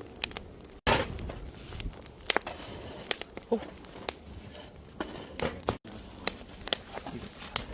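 Wood fire crackling in a campfire, with many sharp, irregular pops and snaps over a low rumble. The sound drops out briefly twice.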